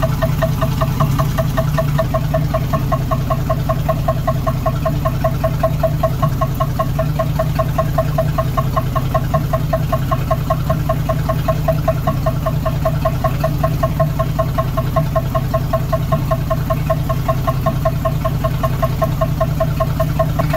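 The AMC straight-six of a 1976 Gremlin idling with a rapid, even metallic knock, like metal hitting metal. The owner cannot tell whether it is a true engine knock.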